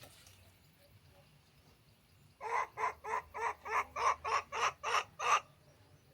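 A bird giving a quick string of about eleven short, harsh calls, starting a little before halfway and stopping near the end.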